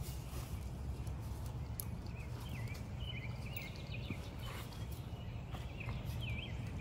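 Outdoor ambience: a low steady rumble with a small bird chirping in quick runs of short high notes from about two seconds in, and a few faint clicks.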